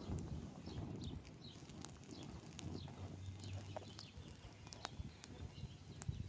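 Faint outdoor ambience of small birds chirping many short notes, with scattered sharp crackles from a small wood campfire.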